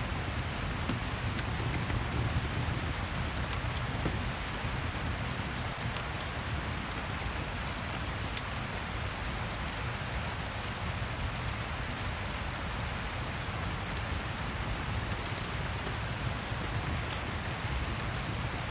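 Steady rain with a fireplace crackling, a few sharp pops scattered through the hiss.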